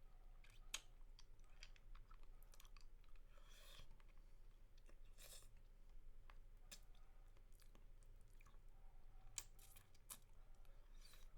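Faint, close-miked wet mouth sounds of someone eating a spicy mango lollipop: scattered irregular clicks and smacks, a few sharper than the rest, with a short rustly smack a little past three seconds in.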